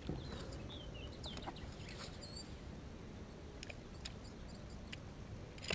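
A bird chirping several quick high notes in the first couple of seconds, over a low steady background noise, with a few faint clicks later on.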